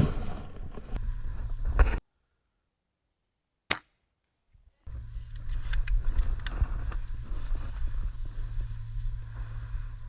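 Rough outdoor microphone noise with scattered sharp clicks that cuts to dead silence about two seconds in. A single short sharp snap sounds in the silence, and the noise with clicks comes back about five seconds in.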